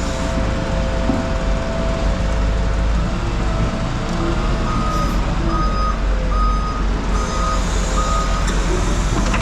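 A vehicle's engine running with a steady whine for the first few seconds. About halfway through, its reverse warning alarm beeps about six times, roughly one and a half beeps a second.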